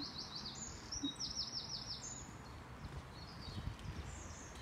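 A songbird singing two short phrases of quick, repeated down-slurred notes, with a few fainter chirps near the end, over a low steady background rumble.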